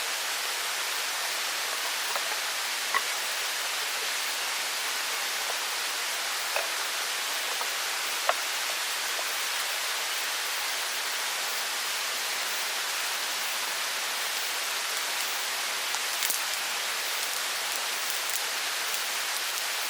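Steady rushing of a forest mountain stream, with a few small, sharp clicks scattered over it.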